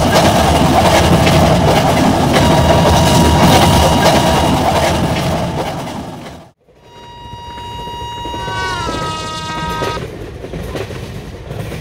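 Train running past with the wheels clattering over the rail joints and a horn sounding over it. After a sudden break, a locomotive horn sounds for about three seconds, its pitch sliding up near the end.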